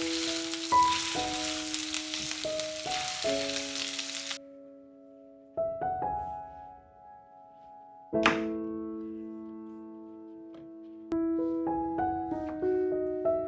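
Food sizzling in a frying pan over soft piano background music. The sizzle stops abruptly about four seconds in, leaving the piano, and a single sharp knock comes a little after eight seconds.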